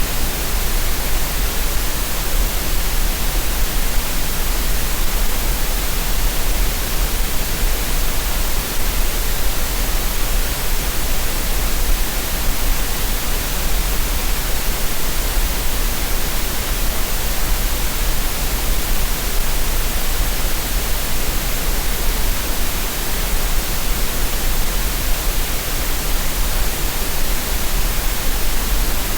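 Steady green noise: a continuous, unchanging synthesized hiss spread evenly across the range, with a strong low hum at the bottom.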